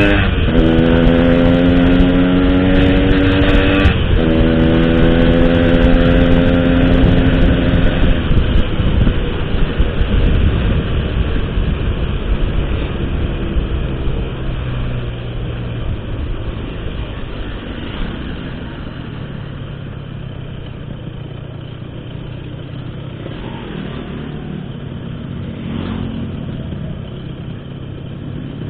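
Motorcycle engine through an aftermarket Altech C17 exhaust, accelerating with its note rising, a short break about four seconds in as it shifts gear, then easing off after about eight seconds into a quieter, steady run.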